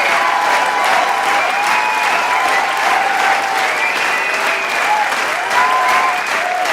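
Large crowd applauding steadily, a dense mass of hand claps, with many voices cheering and whooping over it.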